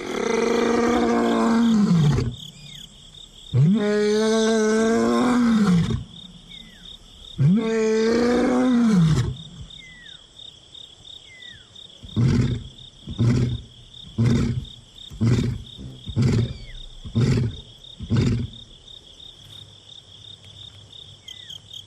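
A male lion roaring: three long, deep moaning roars, then a run of about eight shorter grunting roars that trail off. It is a lone male's contact call to locate his missing companion. A steady insect trill runs underneath.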